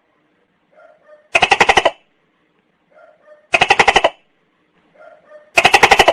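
Tokay gecko calling: three loud, rapid rattling bursts about two seconds apart, each preceded by a soft short note.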